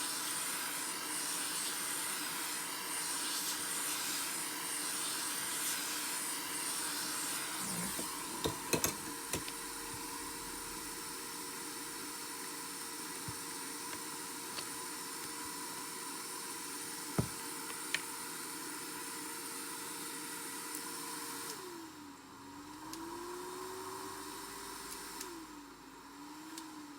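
Hot-air gun blowing with a steady hiss and motor hum, with a few light clicks in the middle. Near the end the motor's pitch drops, rises and drops again as its speed changes.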